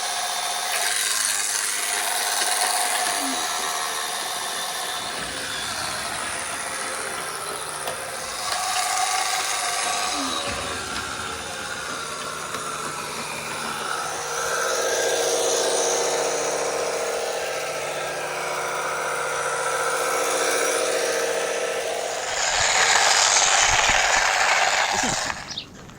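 1982 Remco Toyota toy truck's small electric motor and plastic gear train running, a steady whine with rattling that rises and falls in level. Near the end it gets louder, then cuts off suddenly.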